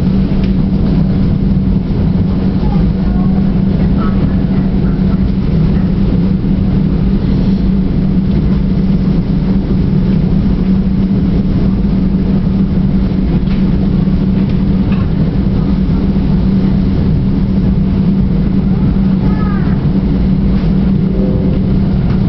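Steady running noise inside the coach of an NJ Transit Pascack Valley Line diesel commuter train moving at speed. It is a constant low hum over a dense rumble, unbroken and even.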